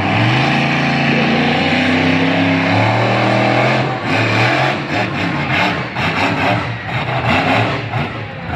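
Monster truck engine running hard: it holds a high, steady note for about four seconds, then revs up and down in quick blips.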